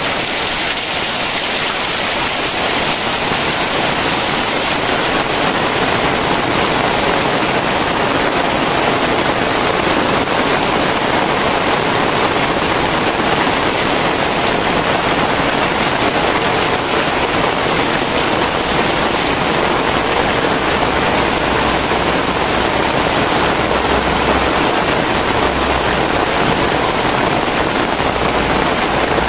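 Very heavy rain pouring down steadily: a dense, even hiss of downpour with no let-up.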